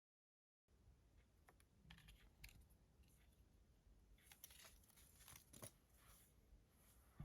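Near silence: after a dead-silent start, faint scattered clicks and rustling begin under a second in, like tarot cards being handled.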